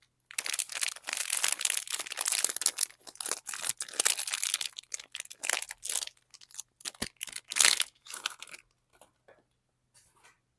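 Soap packaging being unwrapped by hand: wrapper crinkling and tearing densely for about six seconds, then breaking into a few short rustles with a light knock about seven seconds in.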